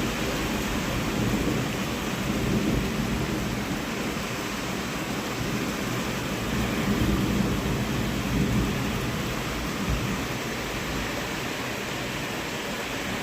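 Steady rain with low rumbles of thunder that swell and fade twice, about a second in and again about seven seconds in.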